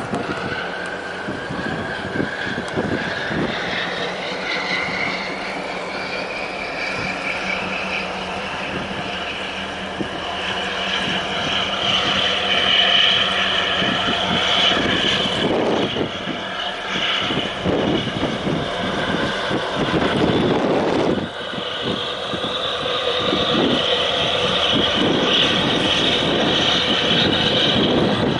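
Engine drone rising steadily in pitch over the first several seconds, then holding at a higher pitch.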